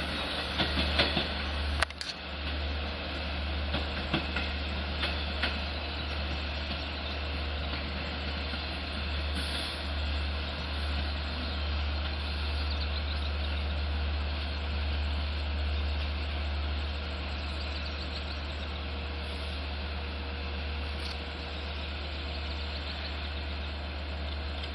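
Long Island Rail Road diesel locomotive idling with a steady low rumble and a faint steady hum, with a few sharp clanks in the first two seconds.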